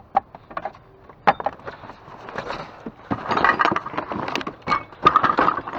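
Salvaged items knocking and clattering as they are handled and shifted around. There are scattered sharp knocks at first, then a denser run of rattling and scraping from about three seconds in.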